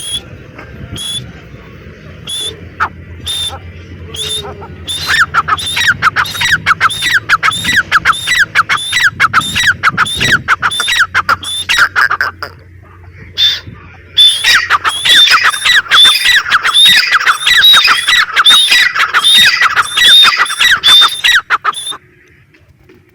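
Grey francolin calling: a few spaced calls, then a fast run of repeated high, ringing calls at about four or five a second, a short pause, and a second fast run that cuts off suddenly near the end.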